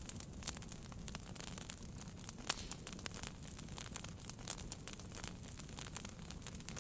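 Wood fire burning in a fireplace, crackling with irregular sharp pops over a low steady rumble, with a couple of louder pops about half a second and two and a half seconds in.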